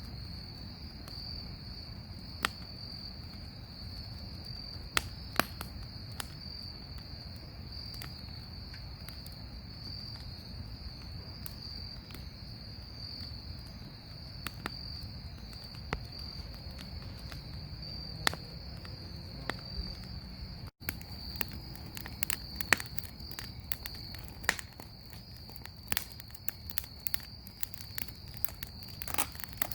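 Bonfire crackling with sharp pops, scattered at first and coming thick and fast in the last third, over a steady high-pitched trill of crickets.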